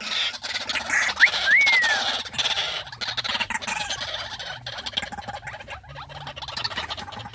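A bird's short whistled call that rises and then slides down, about a second in, among scattered clicks and rustling from the birds. A faint thin high tone runs through the second half.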